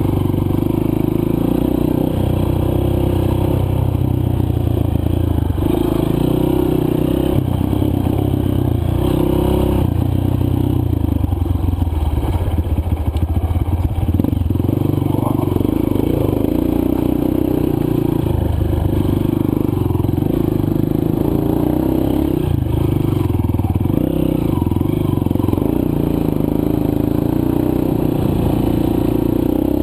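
Honda CRF230F dirt bike's single-cylinder four-stroke engine running under load on a trail ride, its note rising and falling with the throttle, with the clatter and scrape of the bike over rough ground, roughest about halfway through.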